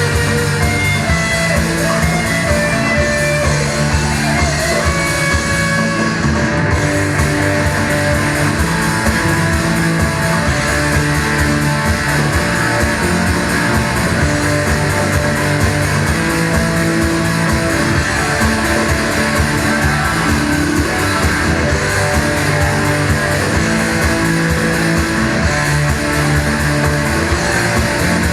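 Live rock band playing guitar-led rock music at a loud, even level, with a steady beat underneath.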